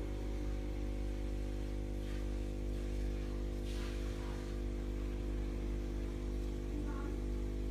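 Steady electric hum with many evenly spaced overtones, like the running of an aquarium pump or filter motor, with faint hissy swells now and then.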